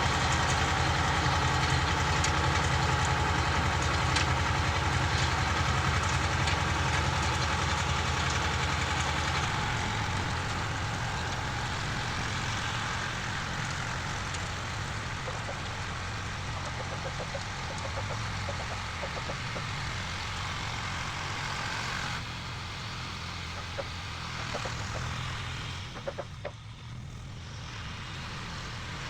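Petrol motor cultivator (rotary tiller) engine running while it tills the garden soil. It is loud and steady for about the first nine seconds, then quieter and more uneven, with a few short knocks near the end.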